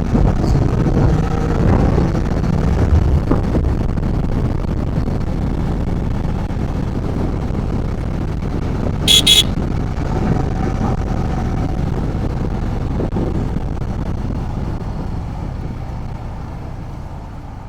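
Road riding noise: a steady low rumble of engine and wind, with two quick high-pitched horn toots about nine seconds in. The noise fades gradually near the end.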